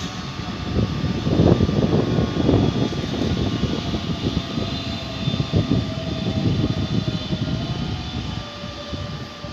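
A train moving through the station: a heavy rumble from the running gear with irregular knocks, overlaid by steady whining tones.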